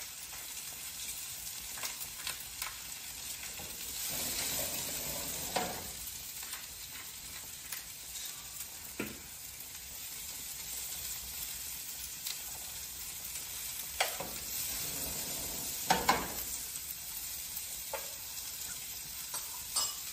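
Sliced mushrooms and garlic sizzling in sesame oil in a skillet on high heat, a steady frying hiss. A few short clicks and scrapes come through as the pan is stirred.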